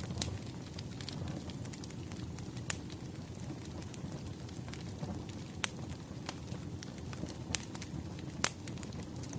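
Wood fire crackling: a steady low rumble of burning logs with scattered sharp pops, about five of them standing out.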